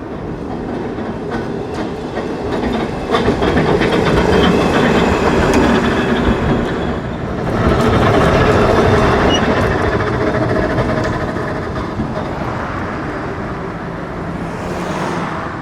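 Perley Thomas electric streetcar rolling along the rails, its steel wheels clicking over rail joints. The sound grows louder about three seconds in and again about eight seconds in, then fades toward the end.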